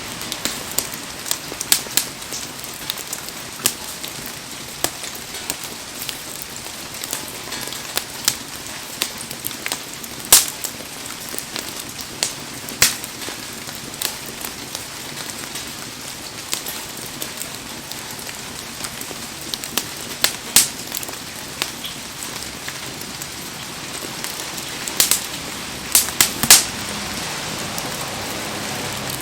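Heavy rain falling steadily, with a wood fire crackling and popping through it in sharp irregular snaps, a few louder cracks and a quick run of them near the end.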